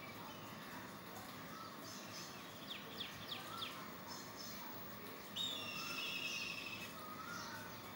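Birds calling outdoors: a quick run of about five short high chirps about three seconds in, then a louder, longer call lasting over a second from about five and a half seconds in, with faint scattered chirps in between.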